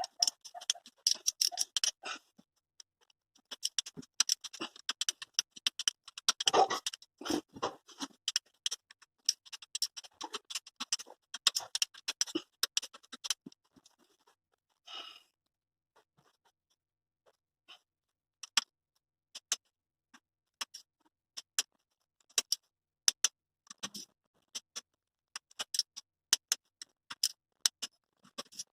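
Irregular sharp clicks, taps and scrapes of hand work with tools and small metal parts, dense at first and sparser after about halfway, with one brief scrape in the middle.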